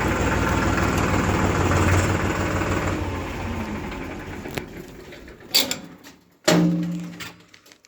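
Diesel engine running steadily, then fading away, followed by two sharp knocks about a second apart, the second ringing briefly like metal.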